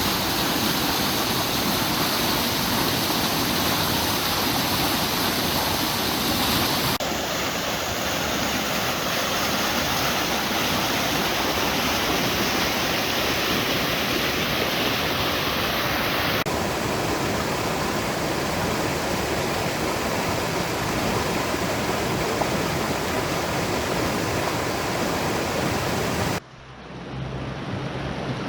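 Rapids of Oak Creek rushing steadily over slick rock, in several spliced takes. Near the end it cuts suddenly to a quieter, softer flow with a low hum underneath.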